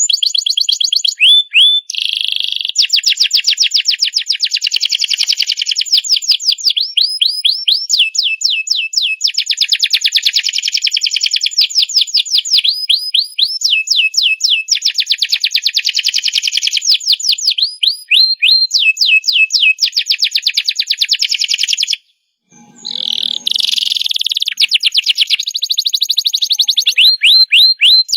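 Domestic canary singing a long, vigorous song of rapid trills and rolling repeated notes, switching to a new phrase every second or two, with a brief break about three-quarters of the way through.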